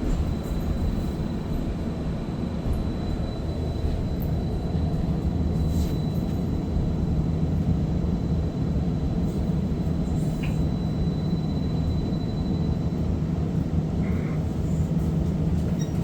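Inside a streetcar: steady low rumble and hum of the car, with a faint high steady whine that stops about three-quarters of the way through.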